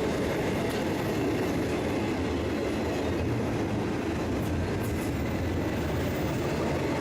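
Freight train cars rolling past at a steady speed: a continuous rumble of steel wheels on the rails.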